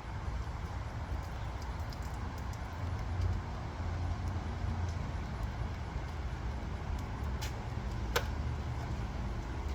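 Steady low background rumble of ambient noise, with two short sharp clicks a little after seven and about eight seconds in.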